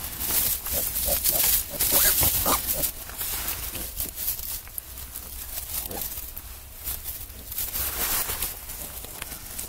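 Newborn piglets giving short squeaks and grunts, most in the first three seconds and one more about six seconds in, over scrabbling and rustling as they move about.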